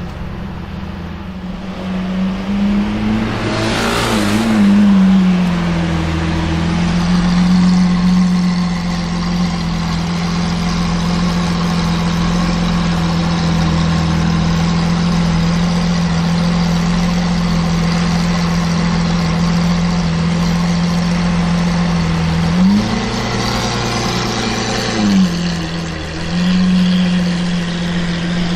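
Lamborghini Aventador V12 through a Capristo exhaust, idling at a steady pitch. It is blipped briefly about four seconds in and twice more near the end, the note rising and falling back each time.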